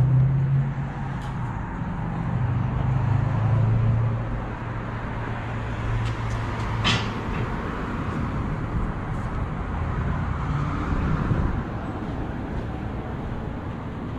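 Supercharged 6.2-litre HEMI V8 of a Dodge Challenger Hellcat running with its mid mufflers deleted, the exhaust note swelling and easing a couple of times before settling. A single sharp click about seven seconds in.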